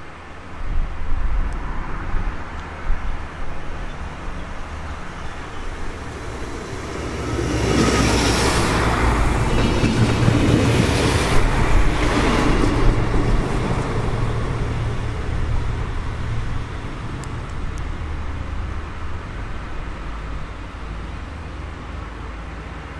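A train passing: rumble and rail noise swell to a peak for several seconds around the middle, then die away slowly, over a low steady rumble.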